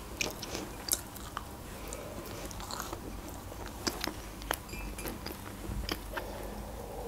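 Close-miked mouth sounds of eating cake: soft chewing with scattered small wet clicks, then a sip from a mug of tea near the end.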